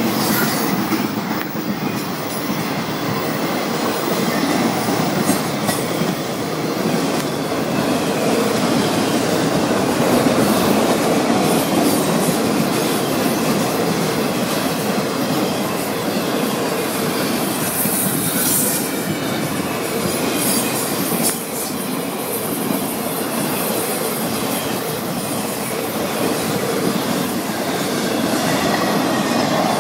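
Freight train cars rolling past on steel rails, a steady loud clatter and rumble of wheels on track, with a brief high squeal a little past the middle.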